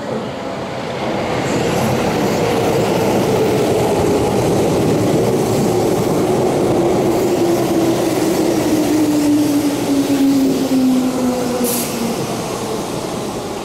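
Keihan electric commuter train pulling in alongside the platform and slowing: a whine from its motors and gearing falls steadily in pitch over a low running rumble as the train brakes, then eases off near the end, with a brief high hiss about twelve seconds in.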